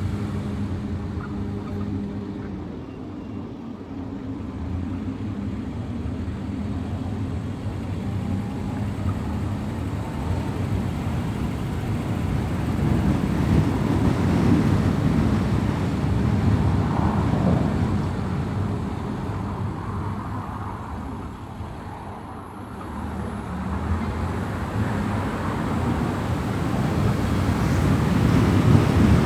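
Car driving on city roads: a steady rumble of engine and tyre road noise. It grows louder towards the middle, eases off about three-quarters of the way through, then builds again near the end.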